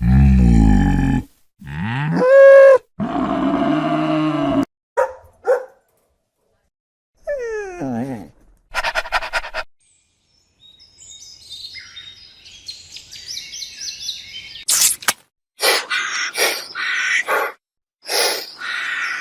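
A string of separate animal calls, one after another with short gaps, beginning with a low cow moo, then other pitched calls, high chirps and a quick run of short calls near the end.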